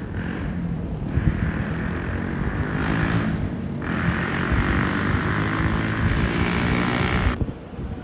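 An engine running close by, with a steady hiss on top that breaks off for a moment about halfway through and stops abruptly near the end.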